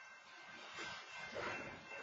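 Freight train of covered hopper cars rolling past, steel wheels on the rails making a faint noisy rumble with two louder swells about a second in, heard through a security camera's microphone.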